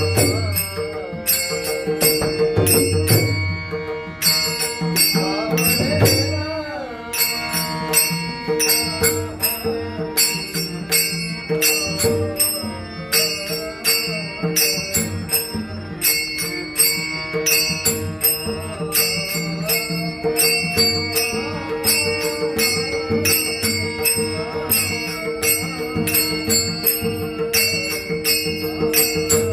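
Marathi varkari bhajan music: metal hand cymbals clashing in a steady quick beat over a held drone, with a melody line bending in pitch in the first few seconds.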